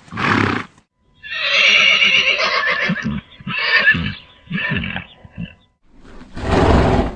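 A horse neighing: a short noisy breath at the start, then about a second in a long whinny that breaks up into a string of shorter, shaky calls, and another noisy breath near the end.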